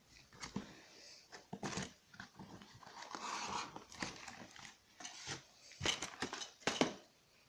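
Packaging being handled to get a diecast model airliner out of its box: an irregular series of clicks and knocks, with rustling about three to four seconds in.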